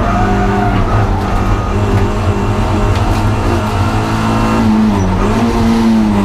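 Honda Integra DC2 engine running hard at high revs on track; about five seconds in the pitch drops briefly, as for a lift or downshift into a corner, then climbs again.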